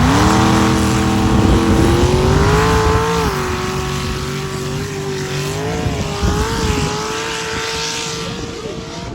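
Truck engine revving hard under load, its pitch climbing sharply at the start. It then holds at high revs for several seconds with brief dips and surges, easing off gradually near the end.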